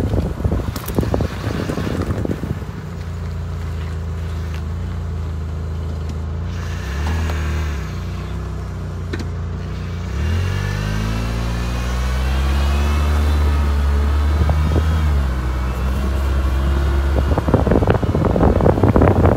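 Car engine running at low speed, its pitch rising as it accelerates about ten seconds in and settling back down a few seconds later. Wind buffets the microphone at the start and again near the end.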